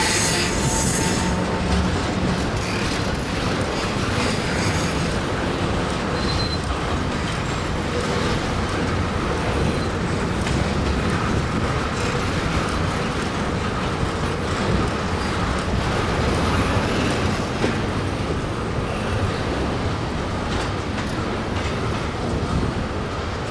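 Cars of a long Union Pacific freight train rolling past on the rails: a steady rumble of steel wheels with repeated clicks and some brief wheel squeal.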